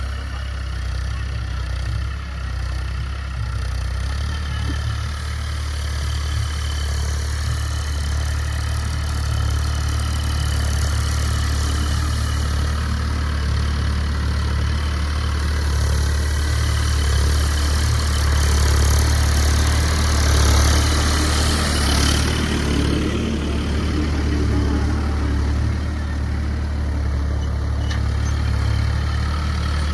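Ford 3600 tractor's diesel engine running steadily, with a swell of higher-pitched noise around two-thirds of the way through.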